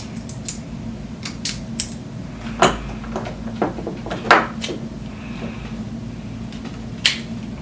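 Irregular clicks and knocks of hard parts being handled as a Bones bearing is pushed into a roller skate wheel, the two loudest knocks coming a little under three seconds in and just past four seconds.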